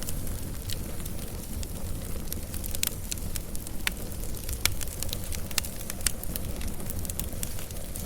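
Wood fire burning, with a steady low rumble and frequent sharp, irregular crackles and pops.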